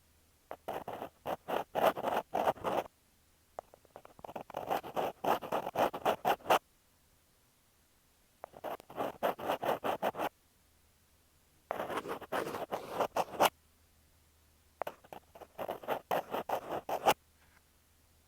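Ear pick scratching and scraping on an earphone microphone, in five bursts of quick, close strokes with short quiet pauses between.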